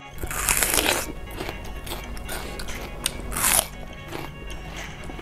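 Close-miked crunchy bites into a raw vegetable, followed by chewing: one loud crunch just after the start and another about three and a half seconds in, with small crackling chewing sounds between them.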